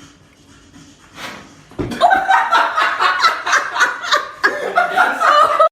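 A person laughing in a quick run of short bursts, starting about two seconds in after a quiet stretch.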